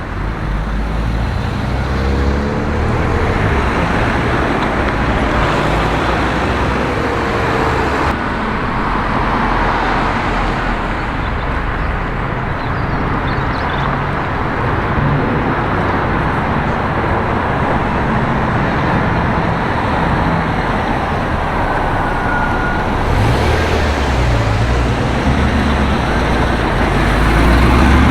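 Road traffic: cars driving past, with steady engine and tyre noise. One vehicle passes louder near the end.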